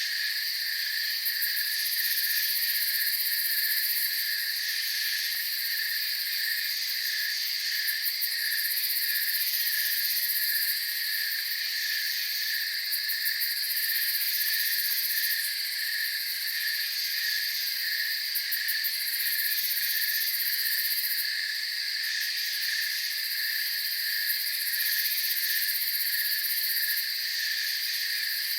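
Night chorus of crickets and other insects, several trills at different pitches layered together. A lower trill pulses steadily, while a very high, shrill trill comes and goes every few seconds.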